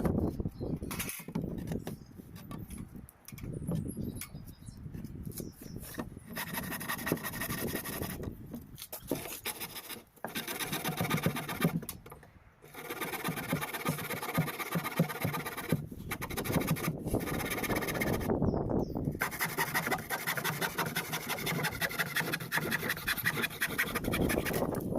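Repeated rapid scraping and rasping strokes, coming in runs of a few seconds with short breaks between them.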